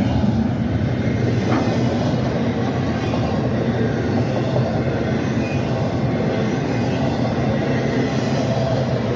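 Freight train rolling past, a steady rumble of its cars on the rails.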